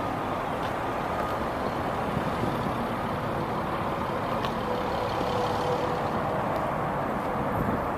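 Steady low rumble of motor vehicle noise, with a few faint clicks.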